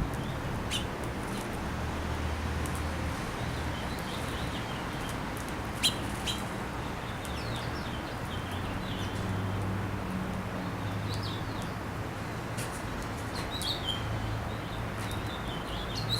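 Small birds chirping in short, high, scattered calls, more often near the end. A couple of sharp clicks come about six seconds in, over a steady low background rumble.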